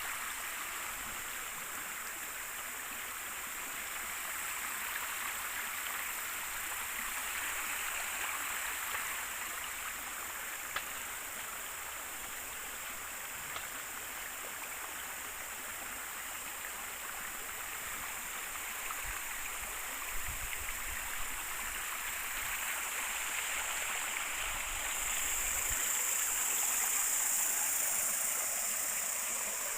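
River water flowing and babbling steadily over a shallow bed, a little louder near the end, with a few faint low rumbles in the middle.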